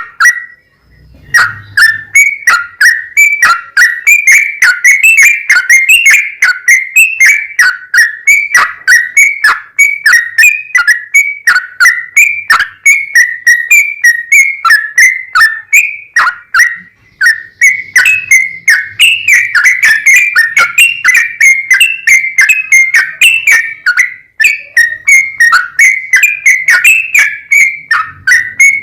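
Yellow-vented bulbul (trucukan) singing a long, continuous song of rapid, bubbly whistled notes, several a second, with brief pauses about a second in and around seventeen seconds in.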